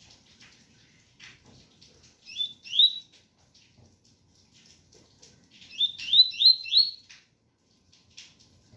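Double-collared seedeater (coleiro) singing the 'tui-tui' song: short rising whistled notes, a pair about two and a half seconds in and a quick run of four about six seconds in, over a faint patter of rain.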